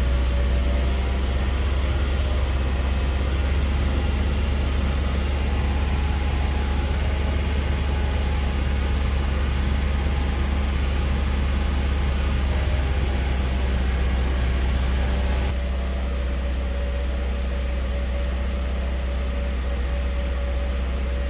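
2009 Volvo S40 T5's turbocharged five-cylinder engine running steadily with a low hum and a few steady tones. About fifteen seconds in, the sound drops a little and grows duller.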